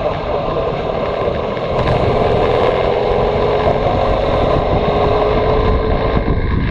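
Motorcycle engine running under way over a steady rush of noise. About two seconds in it gets louder and the engine note climbs slowly, as the bike pulls.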